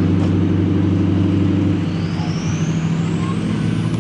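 Diesel pickup truck engine running steadily, with a high whine that rises in pitch through the second half.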